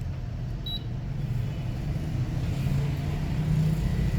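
A low steady rumble that swells slightly in the second half, with one short high beep under a second in.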